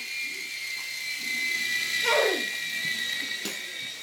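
Air Hogs toy RC helicopter's small electric motor whining steadily at a high pitch, sagging slightly lower and cutting off near the end as its battery runs out. About two seconds in, a short falling cry is the loudest sound.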